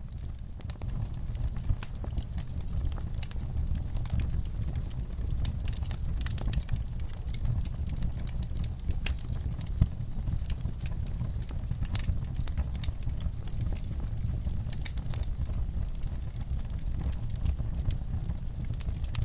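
Wood fire crackling in a fireplace: a steady low rumble with many sharp pops and snaps scattered throughout, and one louder pop about halfway through.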